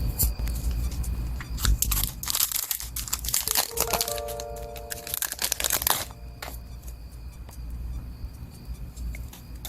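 Packaging being crinkled and torn open by hand, a dense crackling run from about two to six seconds in.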